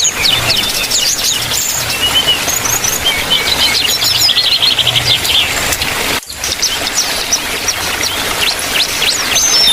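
Aviary birds, sooty-headed bulbuls and smaller birds, chirping and calling over one another in quick, high, overlapping notes. A fast, even trill comes in the middle, and there are lower whistled phrases near the end.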